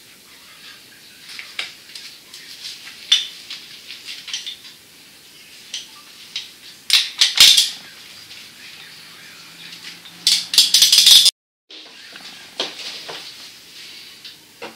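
Scattered light clicks and clattering, like small hard objects knocking together, with two louder rattling flurries about seven and ten seconds in, and a sudden half-second cut to silence just after the second.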